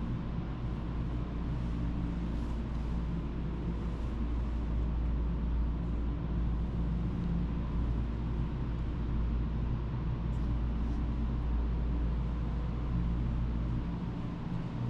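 Pressure washer running steadily: a constant low motor drone with an even hiss of spray over it.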